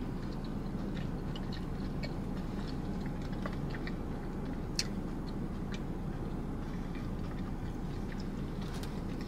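Close-miked chewing with the mouth closed: faint scattered wet mouth clicks, with one sharper click about five seconds in, over a steady low hum.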